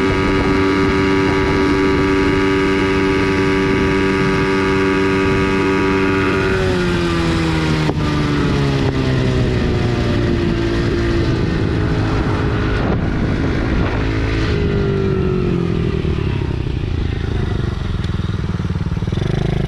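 Small single-cylinder four-stroke engine of a TaoTao 110cc automatic pit bike, held at steady high revs for about six seconds. The revs then fall off, rise and fall again, and drop once more about two-thirds of the way through.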